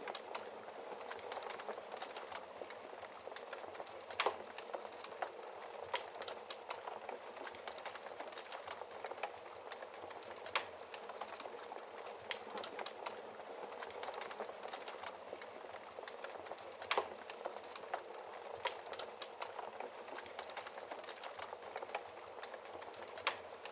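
Wood fire crackling in a fireplace: a steady hiss of burning with frequent small crackles and a few louder, sharp pops spread through.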